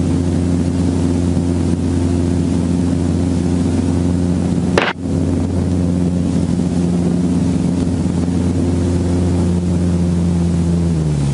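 Helicopter running with its rotor turning, a loud steady drone. There is a sharp click about five seconds in, and near the end the drone's pitch drops slightly.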